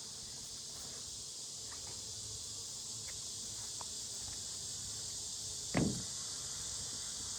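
A steady, high-pitched background insect chorus, with one short thump about six seconds in and a few faint clicks before it.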